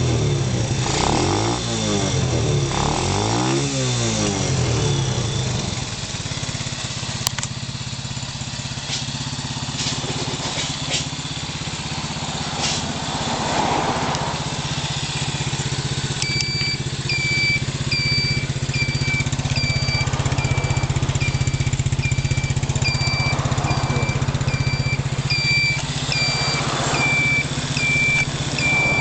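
Speed Industries SPD100 four-wheel buggy's small engine running, revved up and down a few times in the first four seconds, then idling steadily. From about halfway through, a high electronic beep repeats a little faster than once a second over the idle.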